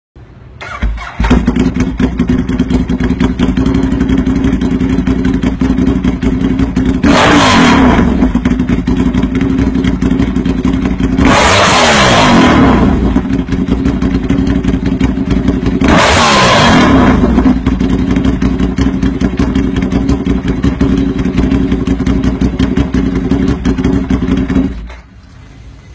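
Engine with a customised exhaust starting up about a second in and idling. It is revved three times, near 7, 12 and 16 seconds, each rev rising and falling back to idle, with the middle one the longest. It shuts off about 25 seconds in.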